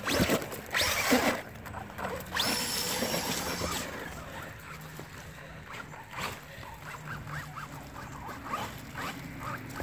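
Brushless electric motor of a Traxxas Rustler VXL RC car whining high as it revs, rising quickly and holding steady for about a second and a half before cutting off near four seconds in. A short noisy burst comes about a second in, and scattered light clicks and spatters follow later.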